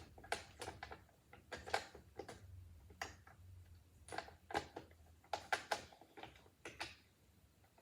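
Irregular clicks and knocks of Roomba robot vacuum parts being handled and fitted together by hand, about fifteen sharp taps spaced unevenly over several seconds.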